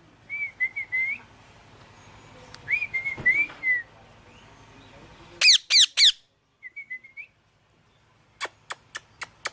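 Pet parrot making short whistled chirps in small groups, with a burst of loud, steeply falling calls about halfway through. A few sharp clicks come near the end.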